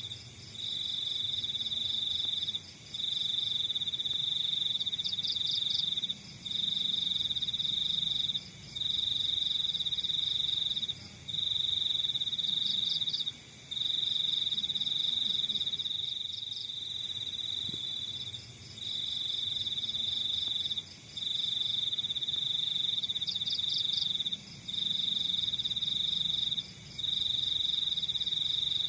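Crickets trilling: one loud, high, steady trill that runs in stretches of about two seconds with short breaks, over fainter pulsing chirps from other crickets.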